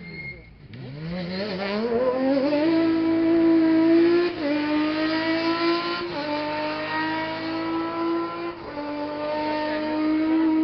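Rally car engine accelerating hard as the car pulls away. Its pitch climbs through each gear, with upshifts about four, six and eight and a half seconds in.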